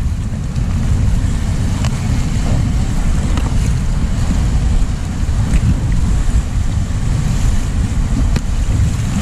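Wind buffeting the microphone over the rush of river water as a raft is paddled forward, with a few faint knocks.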